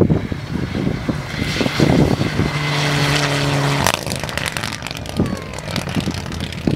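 Race car engine running at speed, building up and then holding steady revs before cutting off abruptly about four seconds in; choppier engine and wind noise follow.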